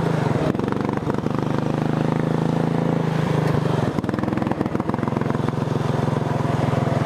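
Racing lawn tractor's engine running hard under way, its pitch holding mostly steady with a brief dip near the middle.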